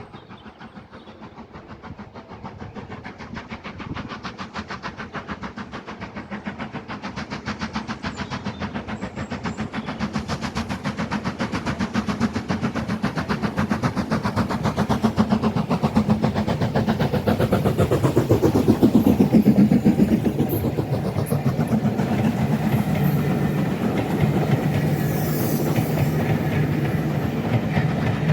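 A train approaching and running past on the railway, with a rapid regular beat of running and wheel noise that grows steadily louder to a peak about two-thirds of the way through.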